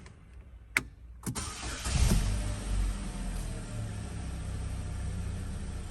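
Two sharp clicks, then a Holden Captiva's engine cranks and catches about a second and a half in, flares up briefly near two seconds, and settles into a steady idle.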